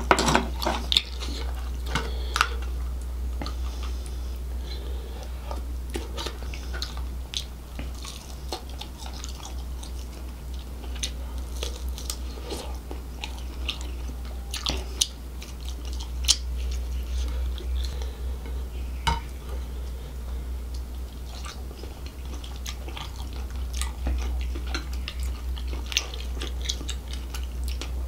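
Close-miked wet chewing and sucking of crab meat and shell in spicy gravy, with scattered sharp clicks and smacks, over a steady low hum.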